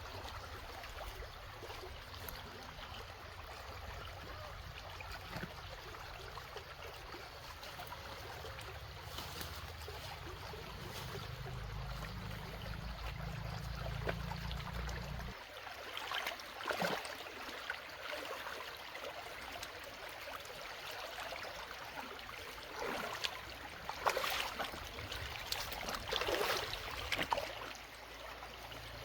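Running water with a steady trickling flow, and several short louder splashes in the second half.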